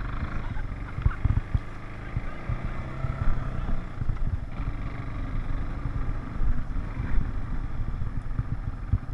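A four-wheeler (ATV) engine running steadily while riding, with a low rumble and many short knocks and bumps.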